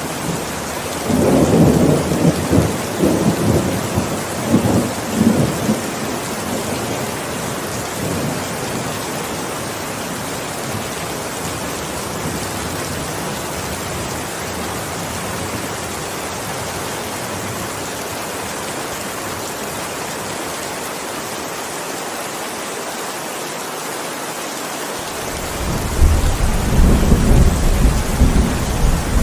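Heavy rain falling steadily, with thunder rumbling for several seconds from about a second in and another deep roll of thunder starting suddenly near the end.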